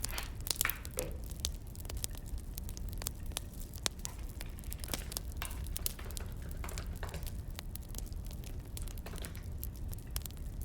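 Wood fire crackling: irregular sharp pops and snaps, with a few short hisses, over a steady low rumble.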